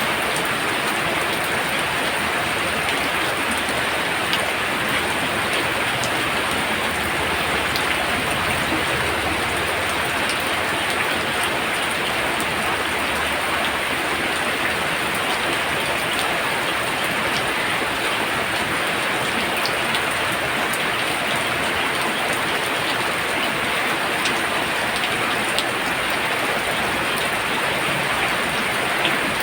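Heavy rain pouring steadily: a dense, even hiss with scattered drop ticks, unchanging throughout.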